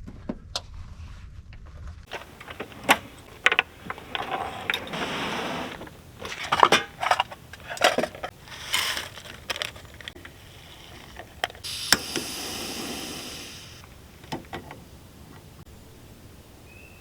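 Objects being handled: a run of sharp clicks, knocks and clatters with short rustles, and a steady hiss lasting about two seconds past the middle.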